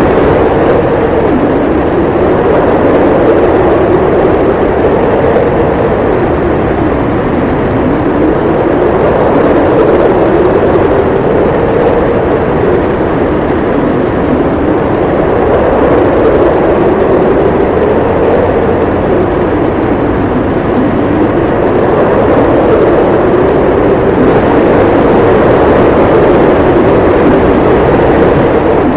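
Howling wind in a snowstorm: a steady, loud rush with a moaning pitch that slowly rises and falls every few seconds.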